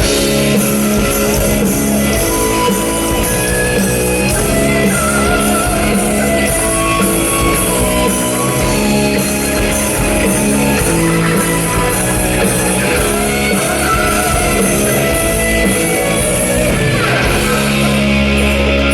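Rock band playing live at full volume, led by an eight-string electric guitar for a heavier sound, with sustained notes running continuously.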